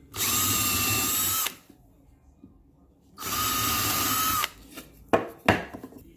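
Power drill running in two steady bursts of about a second and a half each, drilling two holes in a wooden board, its motor holding one even whine. A few sharp knocks follow near the end.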